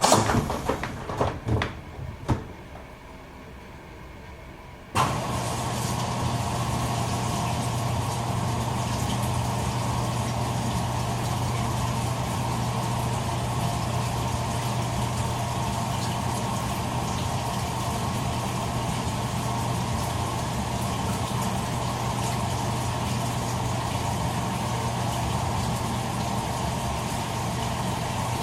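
Toshiba AW-42SEE4(S) fully automatic washing machine: a few clicks and knocks in the first couple of seconds, then about five seconds in its motor starts suddenly and runs on with a steady hum.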